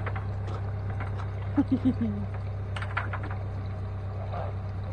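A drake gives a short run of four soft, low calls about a second and a half in, his quiet, raspy attempt at a quack. Scattered light clicks and taps sound around them over a steady low hum.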